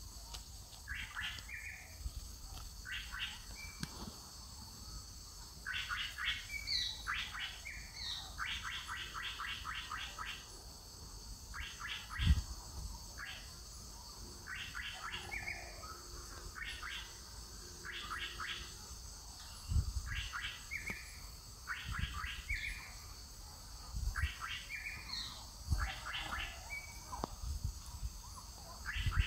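A bird calling over and over, each call a short rapid train of chirps, repeated every second or two, over a faint steady high drone. A few dull low thumps break in, the loudest about twelve seconds in.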